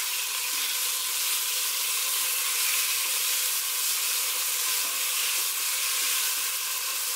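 Tomato wedges, fried garlic and scallion whites sizzling steadily in hot oil in a stainless steel pot as they are stirred with chopsticks.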